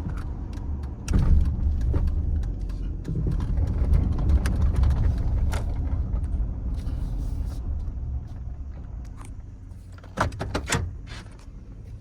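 Low rumble of the GMC Sierra's 5.3-litre V8 and road noise heard inside the cab, easing off as the truck slows to a stop. About ten seconds in come a few sharp clicks and knocks.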